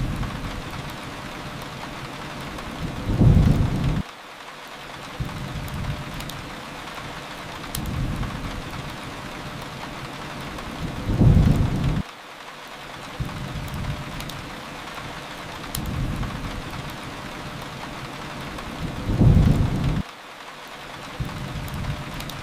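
Steady rain hiss with low rumbles of thunder. Three louder rumbles build about every eight seconds, and each cuts off abruptly.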